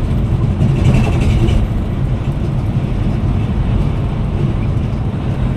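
Steady low rumble of a Scania Metrolink multi-axle coach under way, with engine and road noise heard from inside the cabin.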